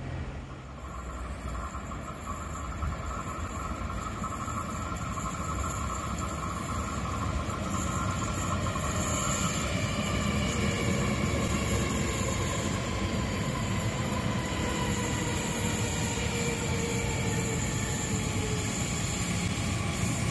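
Electric trains in a station. Rolling noise builds over the first several seconds. Then a Twindexx double-deck regional train comes in along the platform, its drive whine falling in pitch as it brakes.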